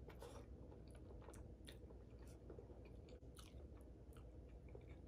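Faint chewing of a mouthful of lasagna, with soft, irregular mouth clicks.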